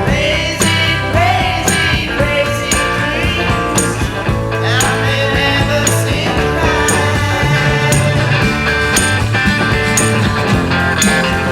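1960s British psychedelic rock recording: a full band with drums keeping a steady beat on the cymbals, bass and electric guitar.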